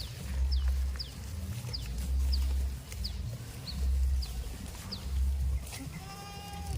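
A goat bleats once near the end, a single short pitched call, against a run of short high chirps repeating about twice a second.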